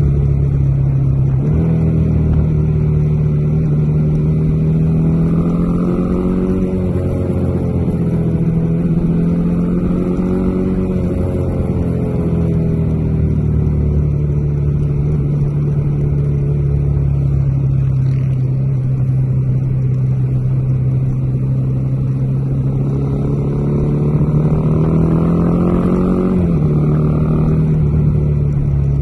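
Bajaj Dominar 400's single-cylinder engine running steadily under way, its pitch rising a little under a second in and swelling gently up and down. It drops sharply a few seconds before the end, then picks up again.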